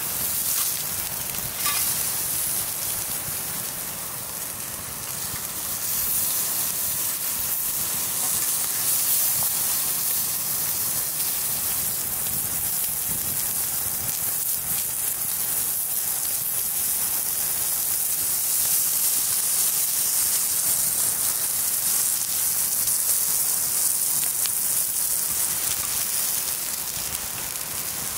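Food frying over an open fire with a steady sizzle.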